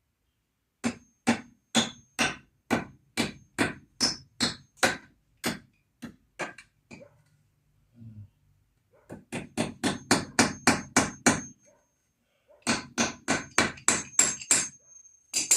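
A hammer striking U-nails (fencing staples) to fix a raised-bed frame together. There are about a dozen steady blows at roughly two a second, then a pause, then two quicker runs of light, rapid taps. The staple keeps bulging instead of sinking in.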